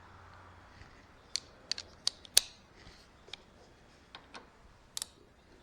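Scattered sharp clicks and taps of hand tools and bolt hardware being handled while fitting a zero-turn mower's lap-bar bolt, about a dozen at uneven intervals, the loudest a little over two seconds in.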